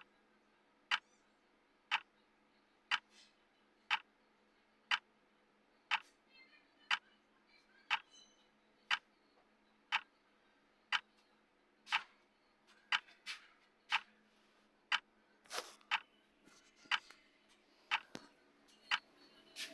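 Clock tick sound effect of a countdown timer: one sharp tick every second, steady. A few fainter extra clicks and short faint tones fall between the ticks in the middle and latter part.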